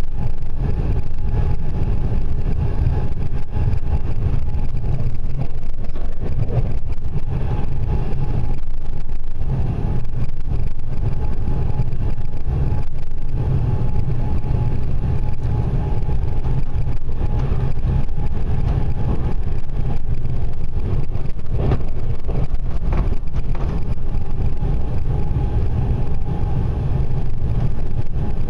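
Passenger train running at speed, heard from inside the carriage: a steady low rumble of wheels on rails, with a faint steady whine and a few faint clicks.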